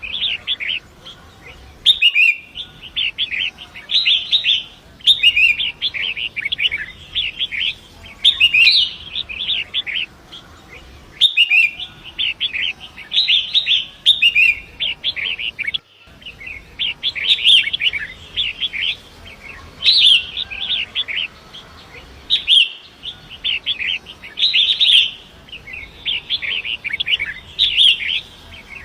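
Long-tailed shrike (pentet) singing in quick, chattering phrases about a second long, repeated with short pauses, over a faint rush of running water.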